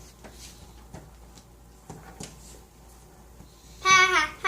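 Faint rustling and small clicks, then near the end a child's loud, high-pitched vocal outburst with a wavering pitch.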